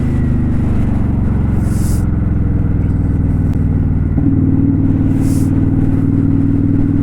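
2018 Kawasaki Vulcan 900 Custom's V-twin engine running under way, a steady note that changes step about four seconds in, with two short bursts of hiss.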